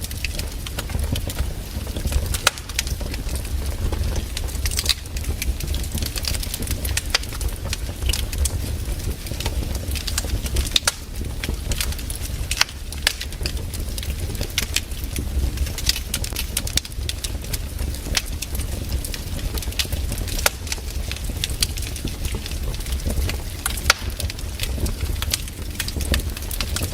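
Wood campfire burning, crackling with frequent irregular sharp pops over a steady low rumble.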